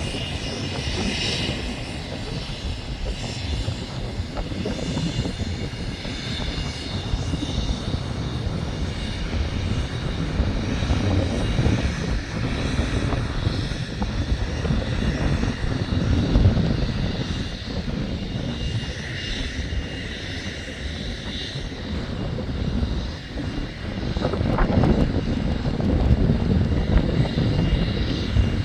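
Jet engines of an Airbus A330 airliner running loud and continuous: a heavy rumble with a steady high-pitched whine above it.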